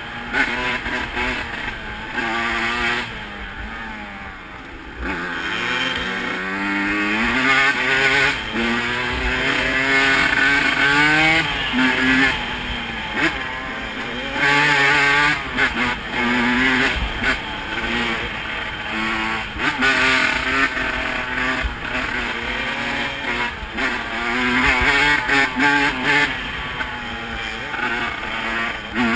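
Off-road single-cylinder engine being ridden hard, its revs rising and falling again and again through gear changes and throttle, dropping quieter for a couple of seconds early in.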